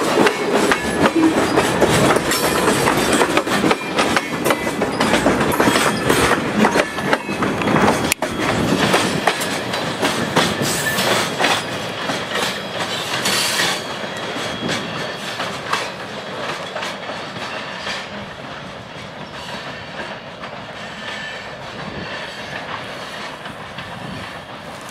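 Freight train's tank cars rolling along the track, their wheels clacking over rail joints with a few thin squeals. The sound grows fainter over the last ten seconds.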